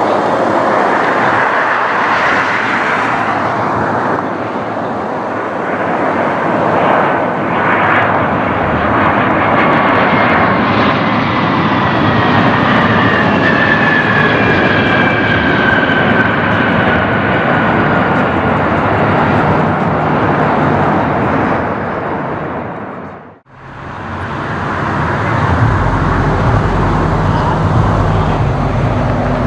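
Jet airliner engines roaring past, with a whine that falls steadily in pitch as the aircraft goes by. Near the end the sound cuts out briefly, and a steadier jet engine sound with a low hum follows.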